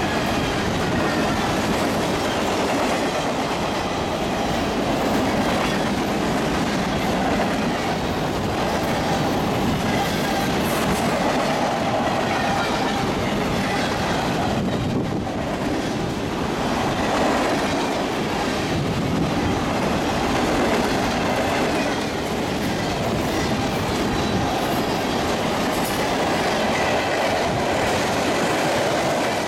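Freight cars of a mixed freight train rolling past close by: steel wheels running over the rails in a steady, unbroken rolling noise as boxcars, an autorack, hoppers and tank cars go by.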